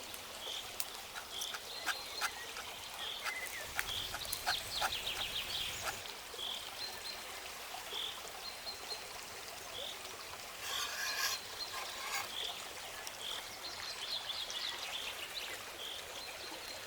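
Outdoor ambience: a bird repeats a short high call about once a second, with a few quick twittering bursts. Scattered light clicks and a steady hiss run underneath.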